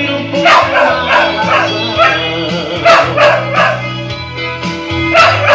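Dog howling and yipping along to a recorded gospel hymn, whose music plays underneath with a steady bass.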